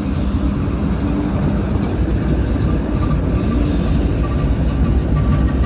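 British Rail Class 08 diesel shunter's English Electric six-cylinder engine running with a steady low rumble.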